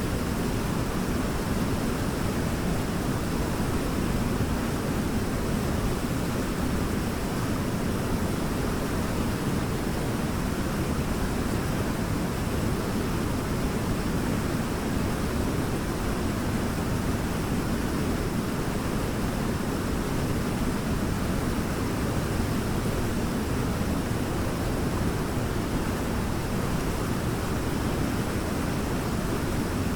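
Waterfall rushing in a steady, deep, unbroken roar of falling water.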